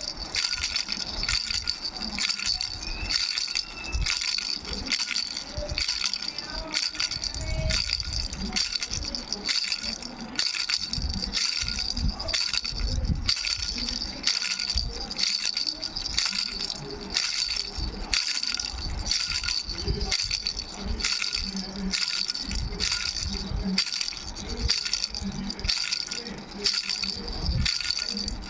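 Baby rattle with three bells shaken without pause: rapid, uneven rattling strokes over a steady high bell ring.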